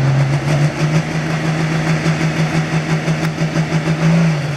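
Super Farm pulling tractor's diesel engine running hard at a steady pitch, its loudness throbbing, then easing off right at the end.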